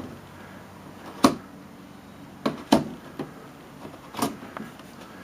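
About four sharp knocks and clunks on an old wooden double-hung window as its outside sash is worked loose, two of them close together in the middle.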